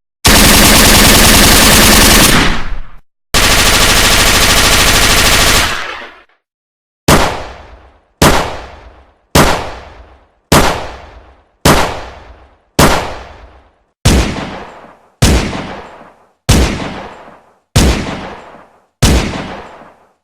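Gunfire sound effect: two long bursts of automatic fire, each about three seconds, followed by a steady series of eleven single shots about one every second, each with a fading tail.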